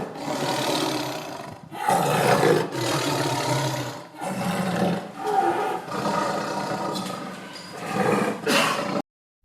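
A large animal calling loudly in four long, harsh, rasping calls one after another, each lasting a second or two, cutting off suddenly near the end.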